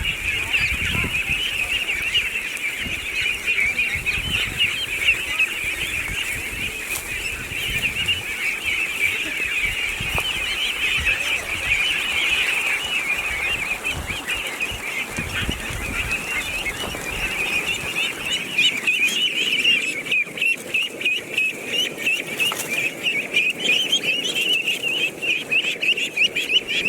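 Flock of geese honking: a dense, continuous chorus of overlapping calls. Near the end the calls come as separate rapid pulses.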